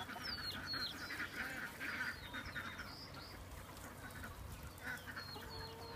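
A group of poultry calling: rasping chattering calls repeated throughout, with a few thin, high, falling peeps of young birds, most in the first second.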